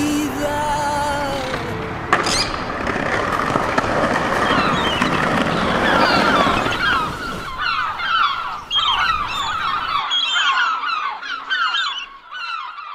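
A steady rush of noise, then a busy chorus of birds chirping over the last several seconds, many short falling calls in quick succession.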